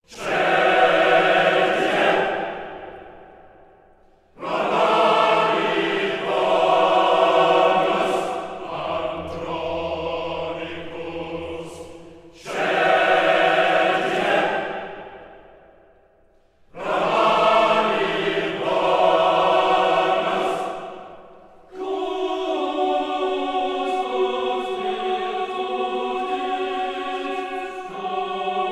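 Choral music: voices singing long sustained chords in four phrases, each swelling and then dying away, followed by a steady held chord in the last several seconds.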